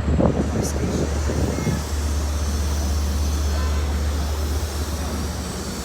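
Long Island Rail Road DM30AC diesel locomotive running with a steady low hum.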